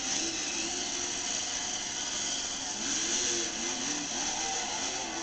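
Monster truck engine revving, its pitch rising and falling several times, over a steady hiss.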